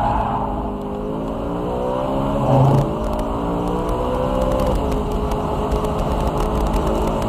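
BMW E92 M3's V8 engine pulling hard under acceleration, its pitch climbing, dropping sharply at an upshift about five seconds in, then climbing again. A brief louder thump about two and a half seconds in.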